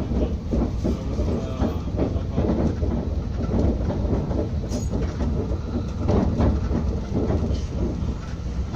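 TER regional train running at speed, heard from inside the carriage: a steady low rumble of wheels on rail with irregular knocks and rattles.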